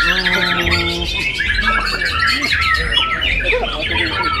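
Many caged songbirds singing at once, a dense, overlapping chorus of chirps, trills and whistled phrases. A low steady tone sounds under them for about the first second.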